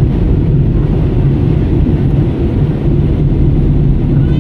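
Steady low rumble of a jet airliner heard from inside the passenger cabin: engine and airflow noise, even in level throughout.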